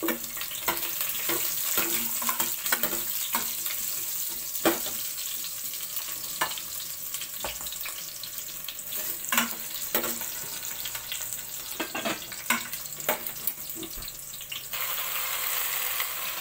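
Onion, turmeric, garlic and salmon head pieces sautéing in hot oil in an enamel saucepan: a steady sizzle with frequent clinks and scrapes of a metal ladle against the pot. The sizzle grows louder near the end.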